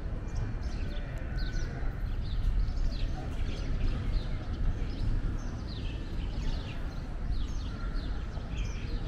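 Birds chirping over and over in short, falling high notes, over a low background rumble of city noise.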